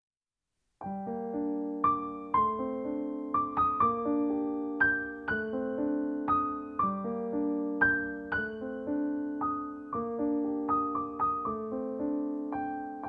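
Background music: a gentle piano or electric-piano piece of struck melody notes over held chords. It starts about a second in, after digital silence.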